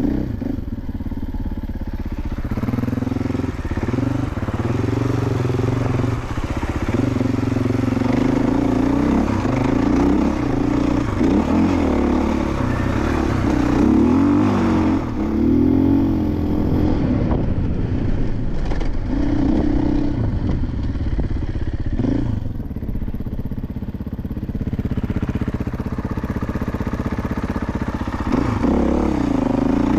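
Dirt bike engines revving up and down while riding, the pitch rising and falling with throttle and gear changes, with a few sudden changes in the sound.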